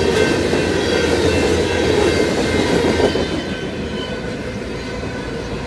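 Freight train of covered hopper cars rolling past: a steady rumble and clatter of wheels on the rails, which gets quieter and duller after about three seconds.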